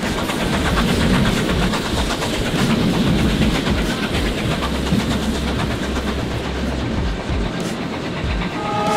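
Train running over the tracks and pointwork, heard from aboard a carriage: a steady rumble of wheels on rails with rapid, dense clicking and clattering.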